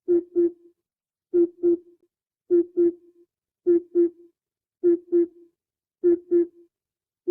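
Oriental cuckoo calling its low, hollow double hoot, "po-po", repeated six times about every second and a quarter.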